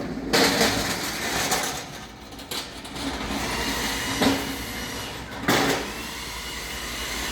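Freight being loaded into a box truck at a shipping dock: steady rumbling and rattling, with sharp knocks near the start, about four seconds in and again a second later.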